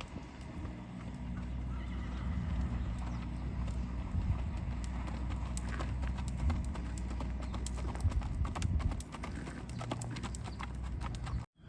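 Hoofbeats of a gaited spotted saddle horse mare shod with keg shoes on all four feet: a run of quick clip-clops over a low steady rumble. The sound cuts off suddenly near the end.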